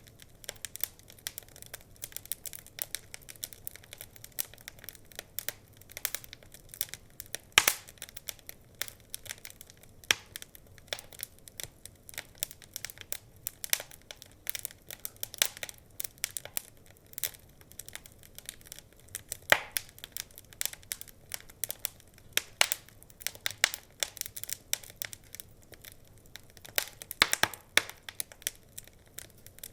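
Wood fire crackling: irregular sharp pops and snaps over a faint hiss, with a few louder pops about a third of the way in, two-thirds of the way in and near the end.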